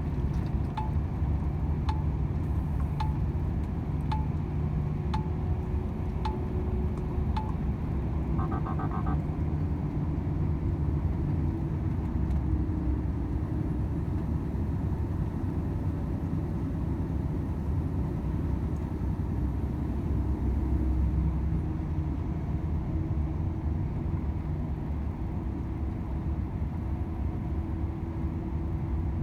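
Volvo FH 500 truck's 13-litre straight-six diesel and road noise droning steadily in the cab. Over the first seven seconds the turn-signal indicator ticks about once a second, and a short dashboard chime sounds just after it stops.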